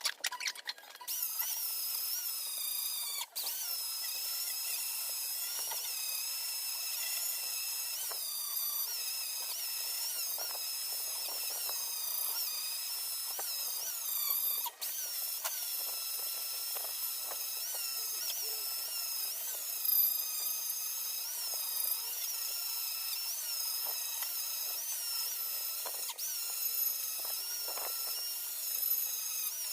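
A small high-speed power tool running steadily with a high-pitched, wavering whine, cut off for an instant twice.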